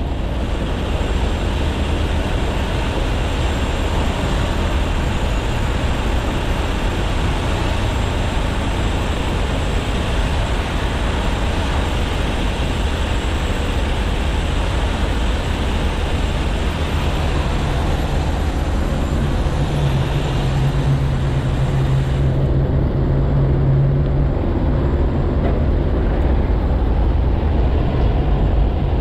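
Heavy diesel truck engine running steadily under a continuous rumble of road noise. A steady low hum comes up about halfway through and fades a few seconds later, and the higher hiss drops away suddenly about three-quarters of the way in.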